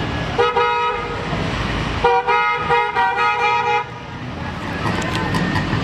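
Car horn sounding twice: a short blast, then a longer one of nearly two seconds, over a steady low rumble.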